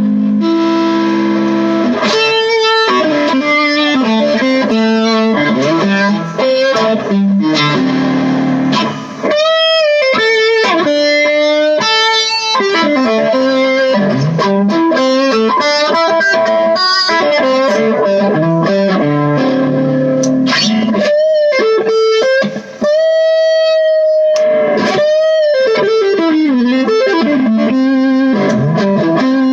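Epiphone Emperor Swingster hollow-body archtop electric guitar played through an amp: melodic single-note lines and chords, with a long held note about two thirds of the way through.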